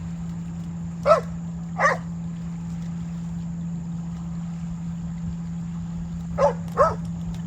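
A dog barking twice, then twice more a few seconds later, over a steady low hum.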